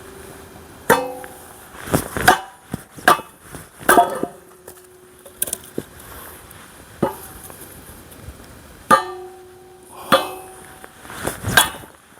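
Axe blows on a tough log that won't split: about ten sharp, irregular strikes. Several are followed by a clear metallic ringing from the axe.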